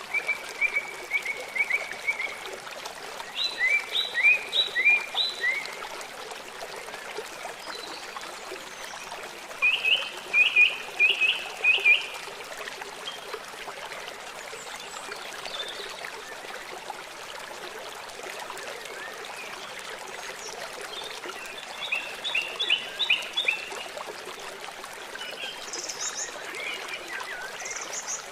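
A river flowing steadily, with a songbird singing four short phrases of quickly repeated chirps and a couple of higher notes near the end.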